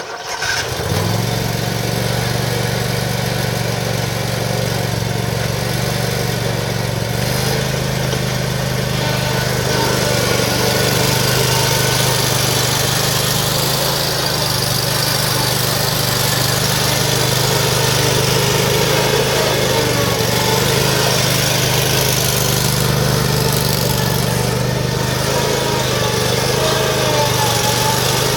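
2007 Exmark Lazer Z commercial zero-turn mower's engine starting right up and running steadily. About seven seconds in, its speed steps up a little and it stays there.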